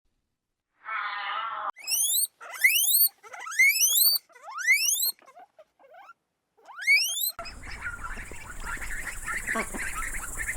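A short held call, then a string of about six rising squeals, each sweeping from low to high pitch in under half a second. Near the end it cuts to a steady outdoor din with a low rumble and chattering calls.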